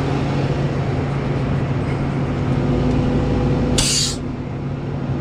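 Hino rollback's diesel engine idling steadily, with one short sharp hiss of compressed air released from its air system a little under four seconds in.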